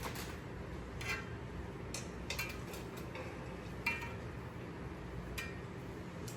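A spatula tapping and scraping against a frying pan in about eight irregular, separate clicks, as shredded cheese is spread over a tortilla, over a steady low hum.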